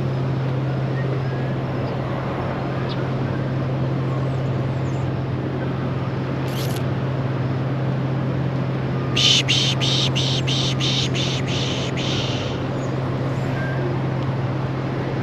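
Canon Rebel T7i DSLR shutter firing a rapid burst of about ten clicks, three to four a second, starting about nine seconds in, over a steady low hum.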